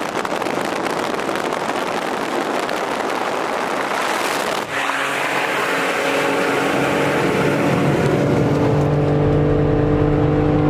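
Car driving: even road and wind noise for the first half, then, after a brief dip, a steady engine drone that grows slightly louder.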